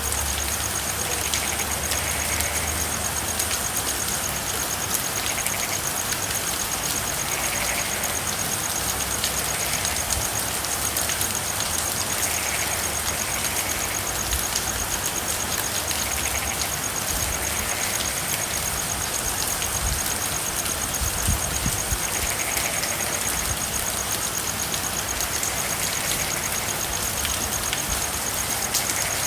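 Steady rain with many drops ticking, and frogs calling now and then, a short call every second or two. A steady high trill runs underneath.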